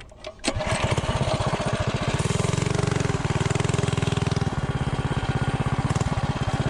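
Predator 212 Ghost single-cylinder four-stroke mini bike engine with a stage 2 kit: a few clicks, then it starts about half a second in and runs at a steady, evenly pulsing idle, a little fuller for a couple of seconds in the middle.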